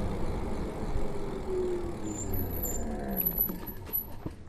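Vehicle noise: a motor's drone falls steadily in pitch over road and wind rumble, then dies down near the end.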